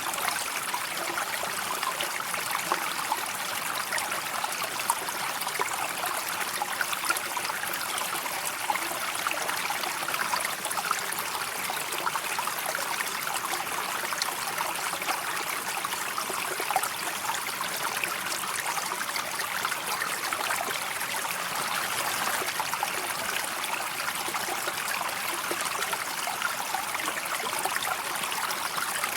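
A river flowing steadily, with a constant rushing, trickling babble of water that doesn't let up.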